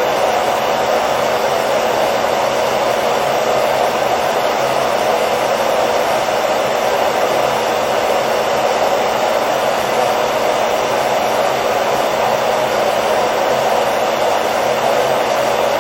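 Hairdryer running steadily: an even, unbroken rushing of air over a faint motor hum, used as white noise to lull a baby to sleep.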